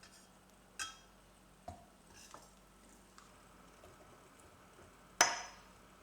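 Kitchenware being handled: four short clinks and knocks, the loudest a sharp ringing clink about five seconds in.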